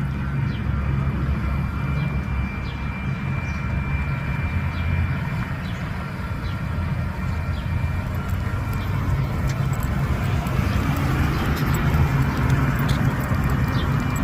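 Railroad crossing warning bell ringing in repeated strikes while the crossing gate stays stuck down, a malfunction later reported to the railroad. A steady low rumble runs underneath, and it grows louder as a vehicle goes by near the end.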